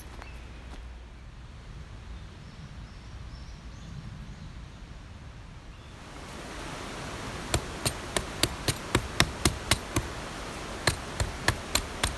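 A steady hiss rises about halfway through, and over it comes a quick run of sharp knocks, about three or four a second, with one short break.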